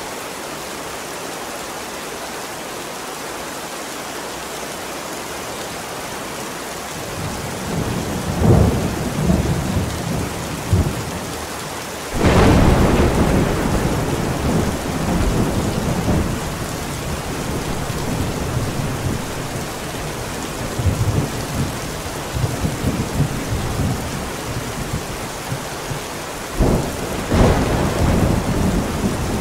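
Steady rain with a thunderstorm. Thunder rumbles from about seven seconds in, then a sharp thunderclap about twelve seconds in rolls on into long rumbling, and another clap comes near the end.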